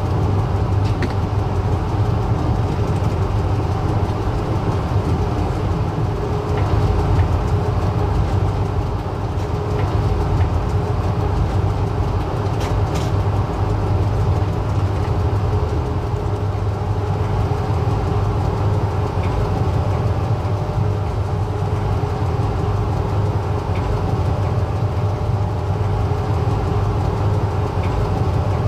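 Passenger train running at a steady pace, a constant low rumble and hum with a few faint clicks and rattles, one clearer click about 13 seconds in.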